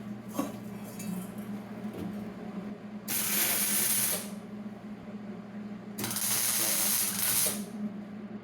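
Welder tack-welding the exhaust pipes: two crackling bursts of arc, about a second and a second and a half long, a few seconds apart, over a steady low hum.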